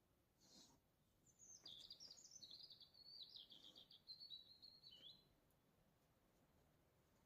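A songbird singing faintly: one rapid, jumbled run of high notes lasting about four seconds, starting about a second in, over a faint background hiss.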